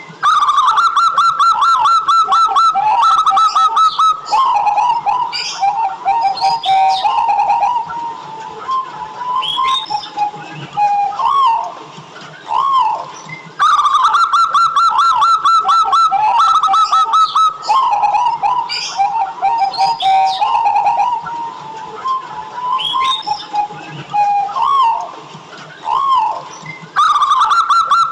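Zebra dove (perkutut) singing its rapid, rolling cooing song. The same loud phrase comes back about every 13 to 14 seconds, with softer single arched coos between.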